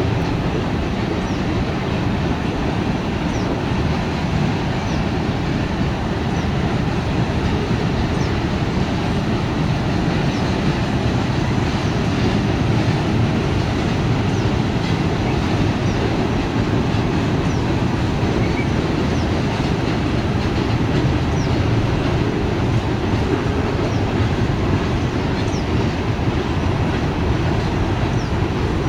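CSX manifest freight train rolling past: a steady rumble of wheels on rail, with faint brief high squeaks here and there.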